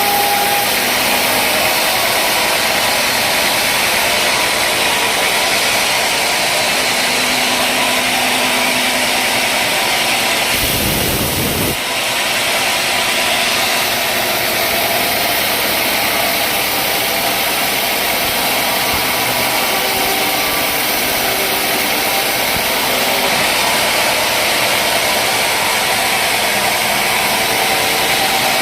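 Sawmill machinery running steadily with a loud, even noise, with a brief low rumble about ten seconds in.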